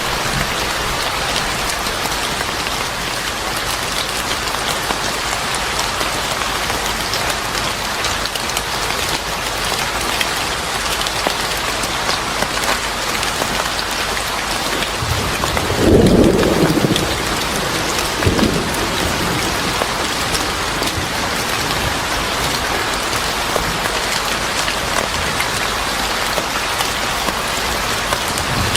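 Steady heavy rain, with a short rumble of thunder about halfway through and a second, smaller one about two seconds later.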